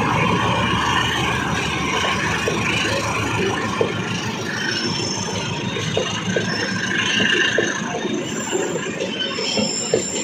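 Passenger train cars rolling along the track, the wheels clacking irregularly over the rail joints. Thin, high wheel squeals come in about halfway through and again near the end.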